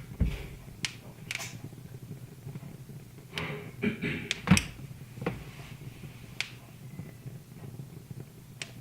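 Wood fire crackling in a fireplace: scattered, irregular sharp pops over a low steady hum.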